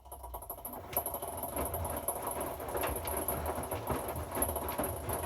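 Hoover inverter washing machine running mid-wash, its drum turning the load: a steady low rumble with light irregular clicking and a faint steady high whine.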